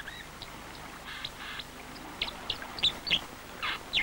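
Wild birds calling: a scattered series of short, high chirps, with two harsher, rasping calls, one about a second in and one near the end.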